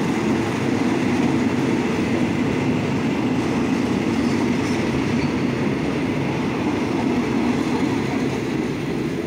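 Express passenger train coaches rolling past close by, a steady rumble of steel wheels on the rails that eases slightly near the end as the last car clears.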